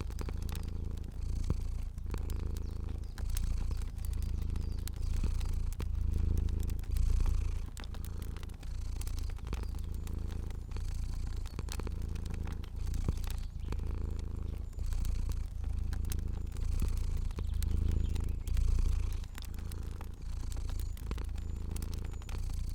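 Domestic cat purring steadily, a low rumble that swells and fades about once a second with each breath. Scattered sharp clicks and pops of a crackling fire run through it.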